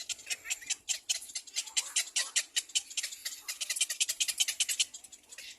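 Little black cormorants calling at the nest: a rapid, high-pitched chattering of many short notes a second, busiest in the middle and easing off near the end.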